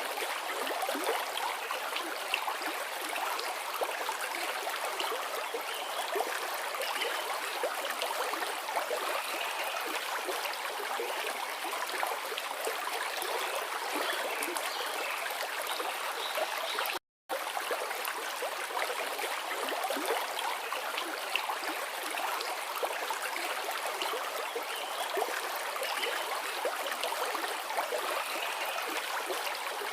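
A forest river flowing, a steady rushing and gurgling of water over stones. The sound cuts out for a split second about 17 seconds in.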